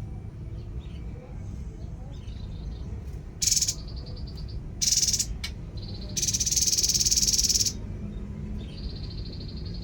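Bird song: three loud, fast, buzzy high trills, the last one long, about three to eight seconds in, with a thin steady high note between them and again near the end.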